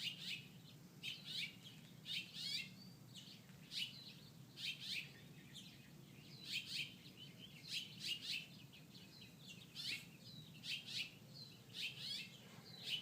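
A small bird chirping over and over: short, sharp chirps, often in quick pairs or triplets, about once a second.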